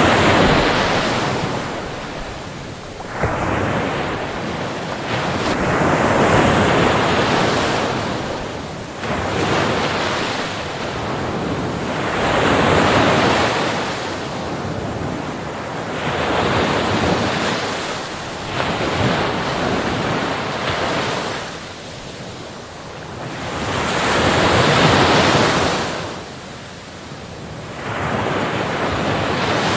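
Ocean waves breaking on a beach, the surf swelling and washing back in uneven surges every few seconds.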